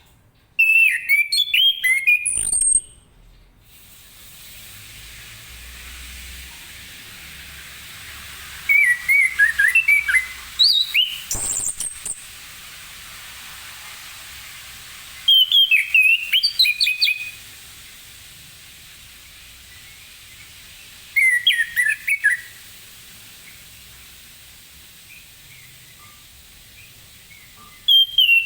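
Chestnut-capped thrush (anis kembang) singing: loud phrases of quick, varied whistled notes, about five of them, each a second or two long and a few seconds apart, over a steady hiss.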